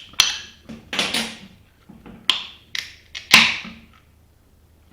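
Clicks and knocks from a beer can and glass being handled, with short rushing bursts, the loudest about three seconds in.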